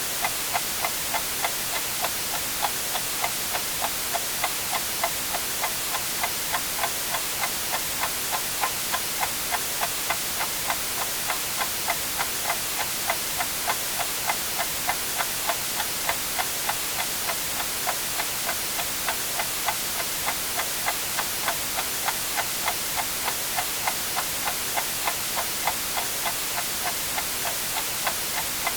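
Clock ticking at a steady, even pace over constant white noise hiss.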